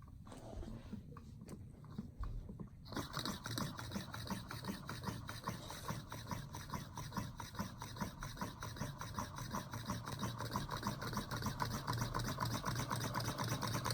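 Homemade Stirling engine running, its wire crankshaft and CD flywheel turning with a fast, even rubbing tick. The ticking starts suddenly about three seconds in and grows slightly louder.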